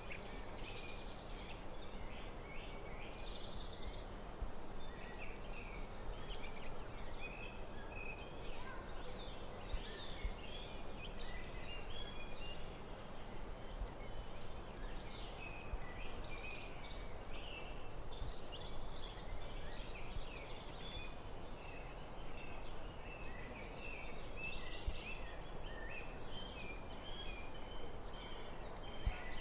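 Forest birdsong: several small birds chirping and warbling continuously over a steady low outdoor hum.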